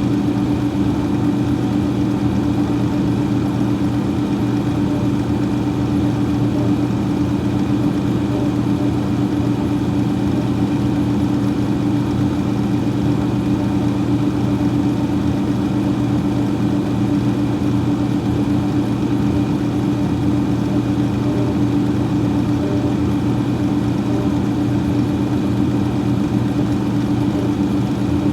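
Freezer fan running steadily: a constant hum with a few steady low tones over an even whoosh of moving air.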